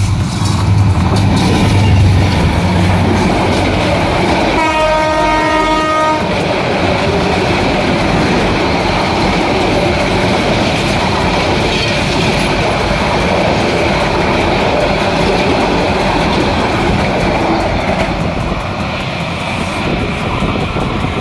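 Intercity express train passing through a station at speed: a steady loud rumble and clatter of the train running on the rails, with its horn sounding for about a second and a half about five seconds in.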